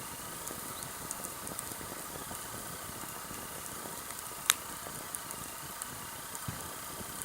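Sawtooth oak (kunugi) firewood burning in a campfire: a steady hiss with light crackles, one sharp loud pop a little past halfway, and a faint wavering whistle.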